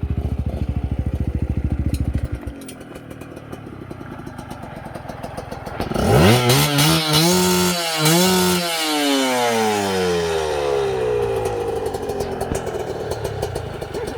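Chinese-made motocross bike engine. A low, pulsing engine note close by drops off about two seconds in. About six seconds in the engine revs up sharply and loudly, dips briefly, then falls steadily in pitch as the bike moves off and fades.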